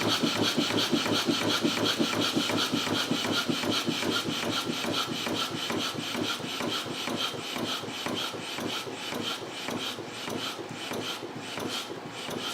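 Stuart No. 1 model steam engine, a single-cylinder double-acting engine, running fast on steam with a rapid, even chuff of exhaust. It slowly gets quieter and stops at the end.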